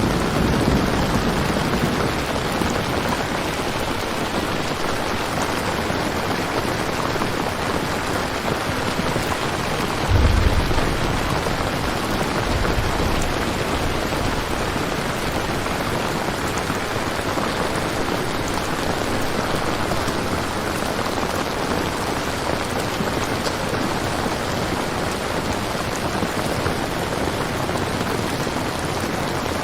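Steady, heavy rain ambience, with a brief low rumble of thunder about ten seconds in and a fainter one just after.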